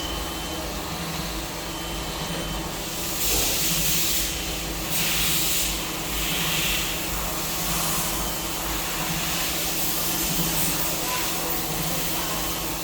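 CNC machine drilling blind holes in aluminum alloy parts: a steady machine hum, with louder stretches of hissing from about three to seven seconds in.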